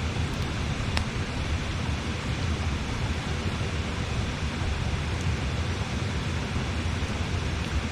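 Steady rushing of a flowing river, with a single sharp crackle from the campfire about a second in.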